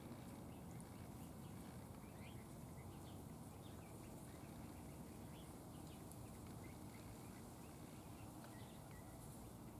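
Faint, scattered short chirps from small birds over a low, steady background noise; the overall level is close to silence.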